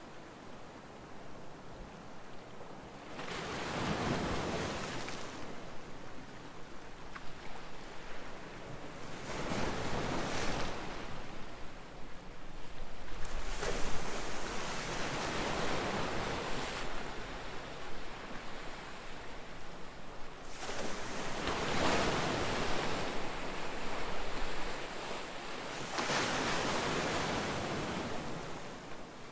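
Ocean waves breaking and washing in, the surf swelling and falling away in surges every few seconds.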